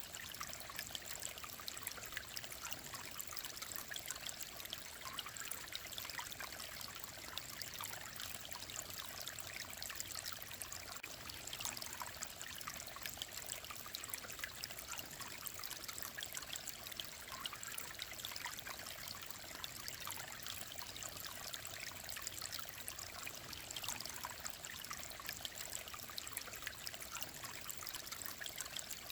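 Mountain stream flowing and trickling, a steady babble of water that does not change.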